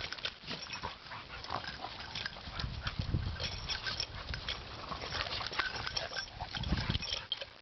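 A dog making small, low sounds amid irregular clicks and rustling as it moves about.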